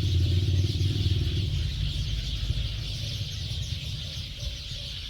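A flock of small gray birds chattering together in a roost tree, a dense, unbroken racket of many overlapping chirps as they gather to roost before sunset. A low engine rumble from passing traffic fades out in the first second or two.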